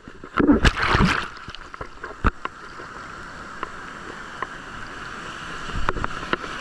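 Sea water sloshing and splashing around a person wading waist deep in the surf. Several sharp splashes come in the first second and a half, then a steady wash of water that builds again near the end.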